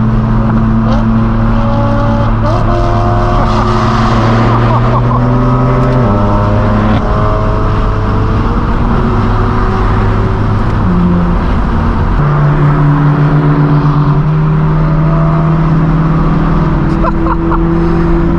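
Straight-piped BMW M4 F82's twin-turbo inline-six (AWE Track non-resonated exhaust) running at steady revs while driving. Its pitch drops about six seconds in and rises again around eleven to twelve seconds in.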